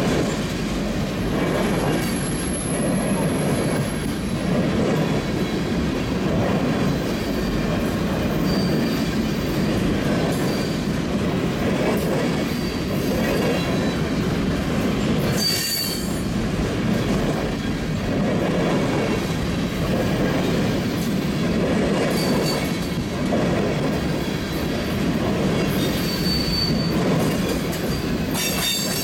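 Empty oil tank cars of a freight train rolling past: a steady rumble and clatter of steel wheels on the rail, with short high-pitched wheel squeals several times.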